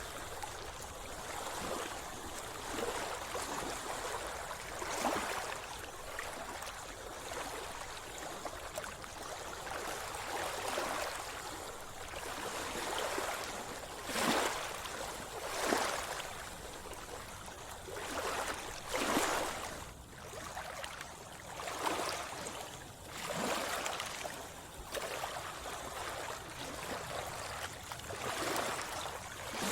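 Sea water sloshing and splashing around a swimmer: a continuous wash of water with short, irregular louder splashes every one to three seconds.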